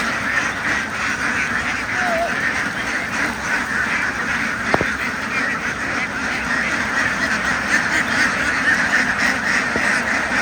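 A large flock of domestic ducks quacking all at once, a dense unbroken din, with a single sharp click about halfway through.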